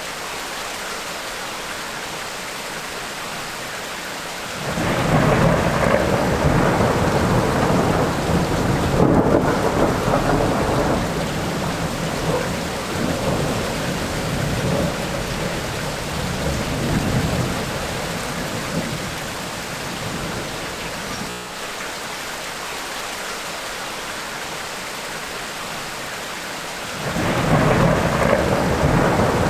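Tropical rainstorm: steady rain with rolling thunder. A long rumble of thunder swells in about four seconds in and rolls on for some fifteen seconds before fading back to rain alone. A second rumble begins near the end.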